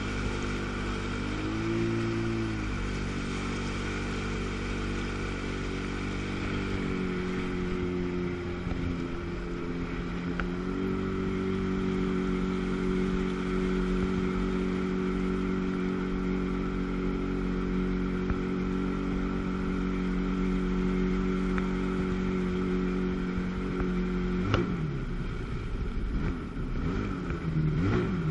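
Sea-Doo GTS's 720 cc two-stroke twin jet ski engine running under way. Its pitch steps up and down a few times, holds steady for a long stretch, then wavers up and down from about 24 seconds in as the revs rise and fall.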